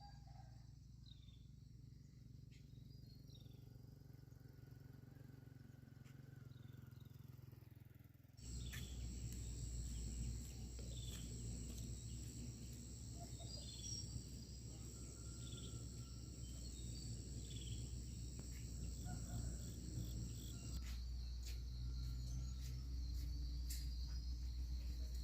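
Countryside ambience: insects trilling steadily with scattered short bird chirps over a low rumble, growing abruptly louder about eight seconds in.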